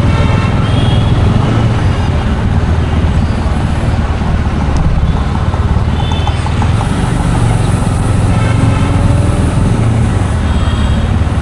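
Busy road traffic running steadily with a low rumble, and a few short, high-pitched horn toots.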